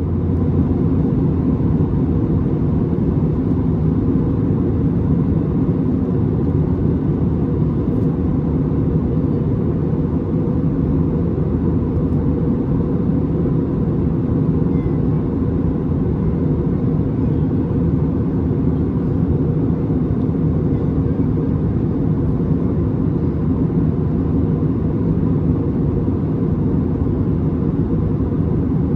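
Steady, low cabin rumble of an Airbus A320neo airliner in descent: engine and airflow noise heard from a passenger seat.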